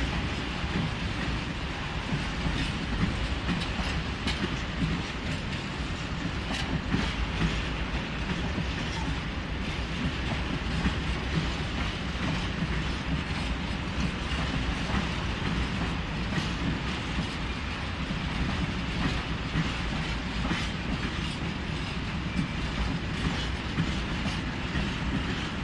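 Freight train of tank wagons rolling slowly past: a steady rumble of steel wheels on rail, with scattered clicks and knocks as the wheels cross rail joints.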